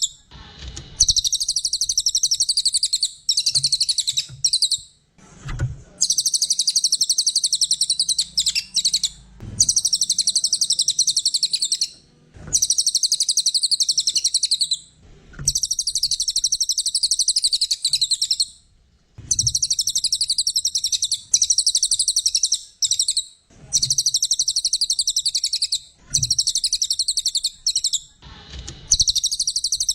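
Brown cililin (cililin coklat) singing: repeated bouts of rapid, high twittering, each about two to three seconds long, separated by short pauses.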